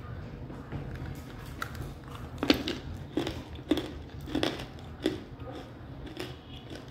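Close-up chewing of crunchy edible clay: about six sharp crunches, roughly one every two-thirds of a second, beginning about two and a half seconds in.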